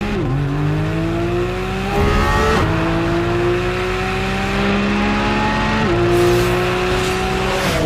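Porsche 718 Cayman GT4 RS's naturally aspirated 4.0-litre flat-six accelerating hard through the gears. The engine note climbs steadily in pitch and drops sharply at each upshift, about every two to three seconds.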